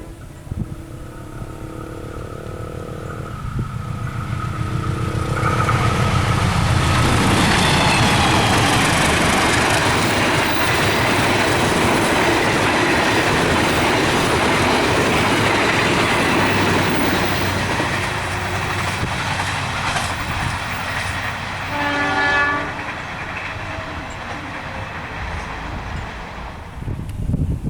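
A long train sounding its multi-tone horn as it approaches, then passing close with a loud rumble and wheel clatter on the rails for about a dozen seconds before fading. A short horn note sounds about 22 seconds in.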